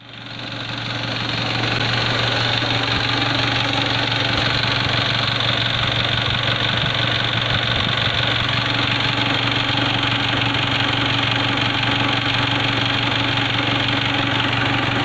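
Mitsubishi 4D56 common-rail four-cylinder diesel engine idling steadily, fading in over the first second or two.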